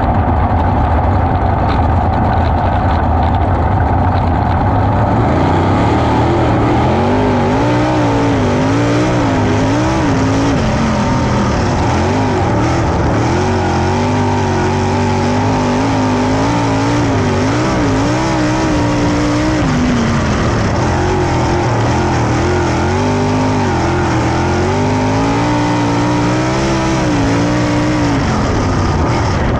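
410 sprint car V8 engines racing, their pitch rising and falling over and over as the cars accelerate and lift. A steadier low engine drone holds for the first few seconds before the rising and falling starts about six seconds in.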